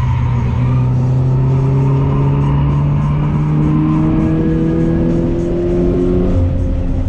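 A 2017 Toyota 86's 2.0-litre flat-four engine, heard from inside the cabin, pulling hard with its pitch rising slowly as the car accelerates. Just after six seconds in the pitch drops suddenly at a gear change, then starts climbing again.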